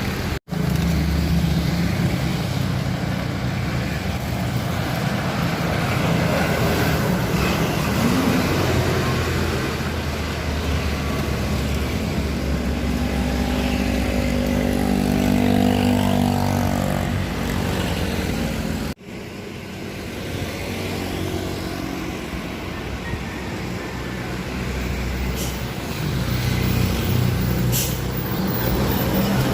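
Heavy truck's diesel engine labouring up a steep climb, its pitch rising and falling as the revs change, with a few short hisses near the end.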